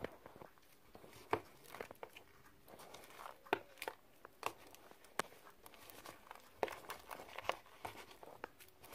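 Polystyrene foam beads being mixed into sticky slime in a bowl, giving quiet, irregular crackles and sticky clicks.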